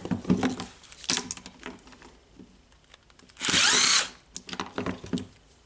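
Clicks and small knocks from handling a rotary hammer's switch wiring and plastic parts during disassembly, then a loud hiss lasting about half a second, about three and a half seconds in.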